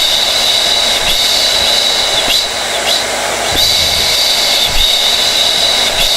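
Blow dryer running steadily: a continuous rush of air with a high motor whine on top.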